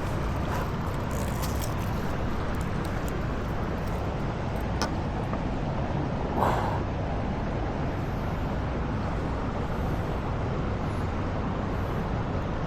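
Steady rushing of flowing stream water, with a single click about five seconds in and a short louder sound a little after that.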